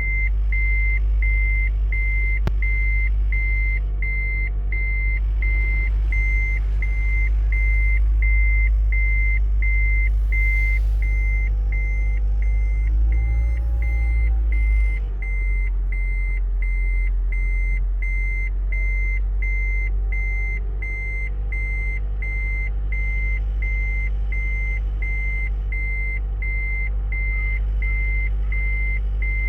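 Vehicle reversing alarm beeping steadily, about one and a half beeps a second, over a steady low engine rumble.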